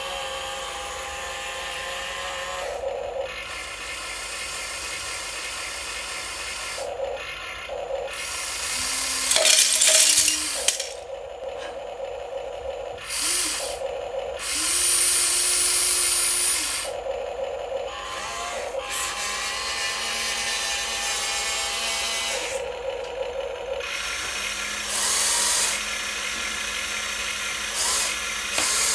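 Small electric motors and plastic gearboxes of RC toy construction vehicles whirring, in several louder bursts that start and stop as the models are driven and worked.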